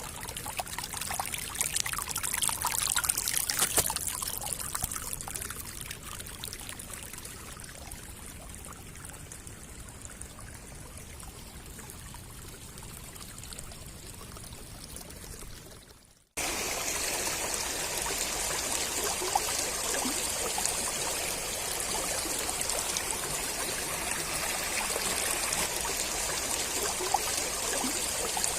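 Running water from a monsoon stream or runoff, a steady rushing flow. About sixteen seconds in it cuts off suddenly and comes back as a louder, even rush of water.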